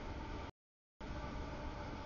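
Freight train rolling past at a grade crossing: a steady rumble of wheels on rail with faint steady tones over it. About half a second in, the sound cuts out to dead silence for half a second, then returns.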